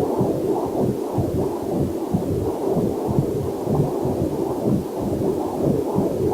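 Fetal Doppler stethoscope playing back pulsing, whooshing heart and blood-flow sounds. The sound is muffled and throbbing, kept low, and keeps up a steady level throughout.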